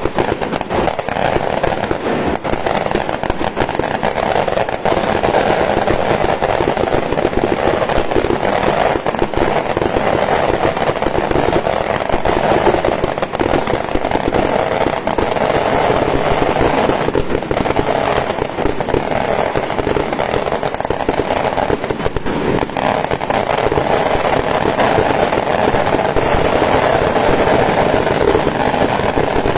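A long string of firecrackers going off, a steady, dense run of rapid small bangs, many a second, that does not let up.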